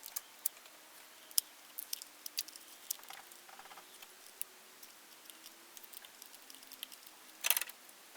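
Light, irregular metallic clicks and taps of hand tools working on the engine's tappet cover, with a louder clatter about seven and a half seconds in.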